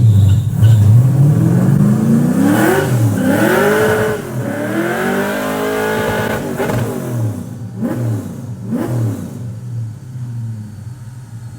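LS3 V8 engine revving hard. Its pitch climbs steeply for the first few seconds, then swings up and down several times. Two quick throttle blips follow, and it settles back to idle near the end.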